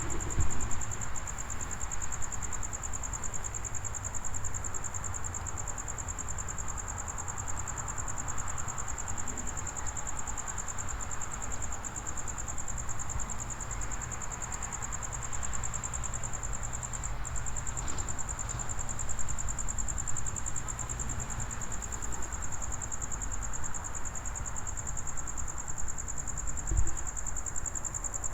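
Crickets trilling steadily, one unbroken high-pitched tone, over a low rumble of wind or distant traffic.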